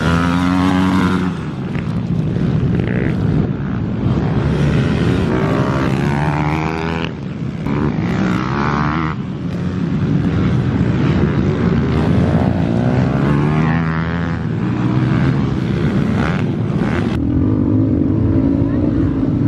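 Small pit bike engines revving hard, their pitch climbing and dropping again and again as the riders open and shut the throttle and change gear around the track.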